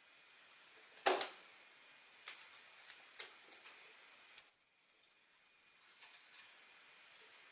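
Orange-headed thrush giving its high, thin 'ngecis' call: one loud whistle sliding downward for about a second, about halfway through. A few short sharp clicks come before it, and a faint steady high tone runs underneath.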